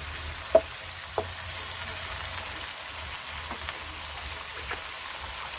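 Onions, tomatoes and whole dried red chillies sizzling steadily in ghee in a frying pan, stirred with a wooden spoon. A few sharp knocks stand out, the loudest about half a second in.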